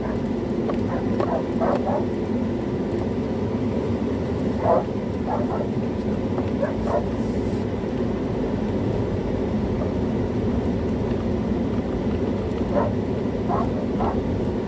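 Loose dogs barking in short bursts, a few barks near the start, again about five to seven seconds in and near the end, over a steady low rumble.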